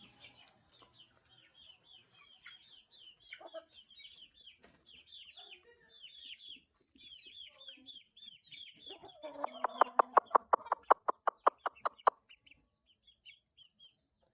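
Chickens calling: short high chirps repeat throughout. About nine seconds in comes a louder call of about three seconds, taken for the crow of an Índio game rooster, with a run of sharp clicks, about seven a second.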